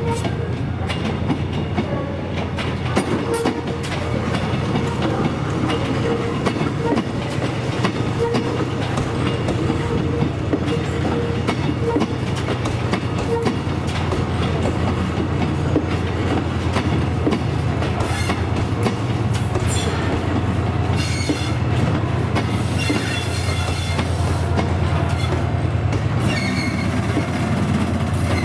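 A TransPennine Express train of Mark 5A coaches with a Class 68 diesel locomotive on the end rolls slowly past, the wheels clicking over rail joints. In the second half, high-pitched wheel squeal comes and goes, and the locomotive's diesel engine is heard low underneath as it draws level near the end.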